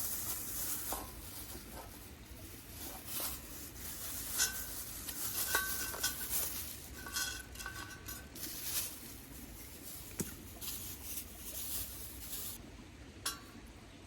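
Heavy steel parts of a small YOKA solo fire pit clinking and knocking together as they are handled, with several short metallic rings.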